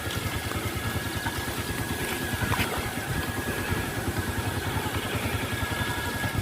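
Small motorcycle engine running steadily, with a faint high whine over the engine note.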